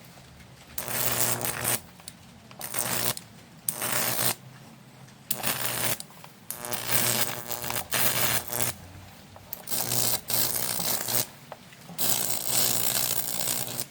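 Neon sign transformer's high voltage sizzling and crackling across wet, electrolyte-painted wood, with a low transformer hum. It comes in about nine short on-off bursts of a second or so each. The wood is being heated to drive off its moisture before the Lichtenberg burn can take.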